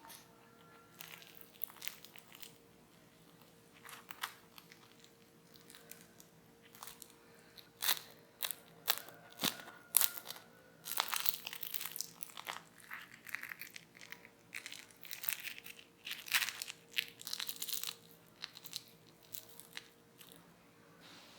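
Crispy deep-fried potato cakes crunching in irregular sharp crackles, sparse at first and then coming thick and loud through the middle of the stretch.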